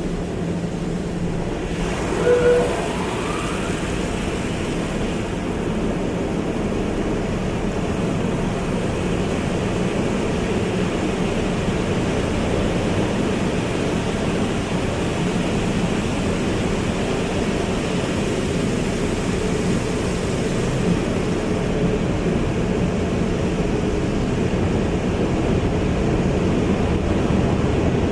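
Car wash running: a steady rush of spraying water and machinery, with a short squeak about two and a half seconds in.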